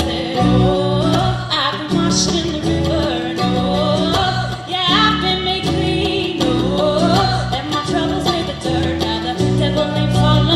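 Live band playing a song: acoustic guitar chords with singing and gliding melody lines over them.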